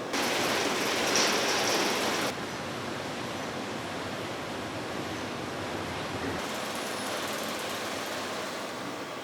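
Fiber laser cutting machine at work on sheet steel: a loud hiss of assist gas starts suddenly and cuts off about two seconds later, then a steadier, quieter machine hiss continues.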